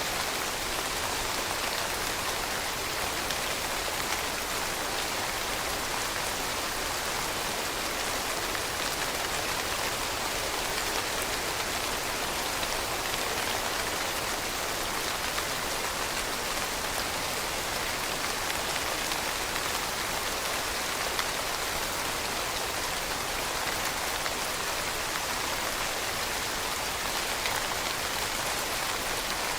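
Steady heavy rainfall, an even hiss with many small drops pattering on a surface and no change in intensity.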